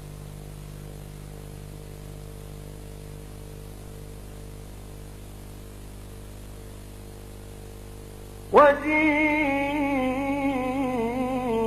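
A steady low hum during a pause in the recitation. About eight seconds in, a male Quran reciter's voice comes in suddenly on a long, ornamented, melodic phrase of mujawwad recitation.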